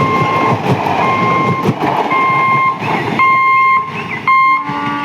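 A train running past with rushing wheel noise and clicks that fall away about three seconds in, over a repeating electronic warning beep sounding about once a second, each beep about half a second long.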